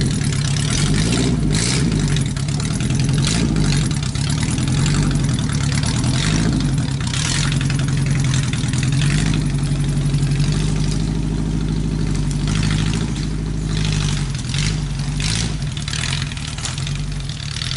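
Small off-road vehicle's V4 engine running noisy through two straight pipes as it drives slowly over forest ground, with occasional knocks. The exhaust broke and the muffler was cut out, leaving each cylinder bank on its own open pipe.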